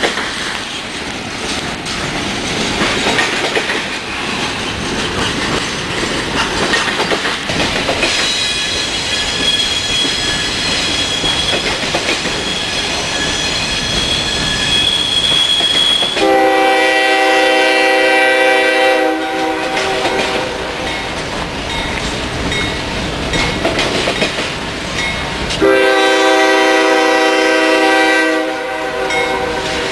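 Freight train of RoadRailer trailers rolling past with steady wheel clatter and a thin high squeal partway through. An approaching freight locomotive sounds its multi-note air horn in two long blasts, one a little over halfway in and one near the end.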